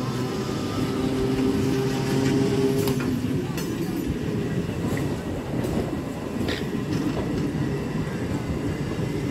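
Old electric local train (EMU) running past at close range. A steady hum sits over the rumble of the coaches for about the first three seconds, then wheels on rail with a few sharp clicks over the joints.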